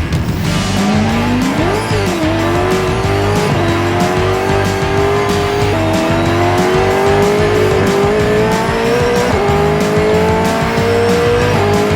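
Supercar V8 engine at full throttle on a hot lap, its pitch climbing and dropping back at several upshifts, with music underneath.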